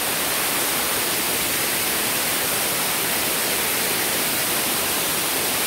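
Steady rushing of a waterfall about 12 metres high: an even, unbroken hiss of falling water.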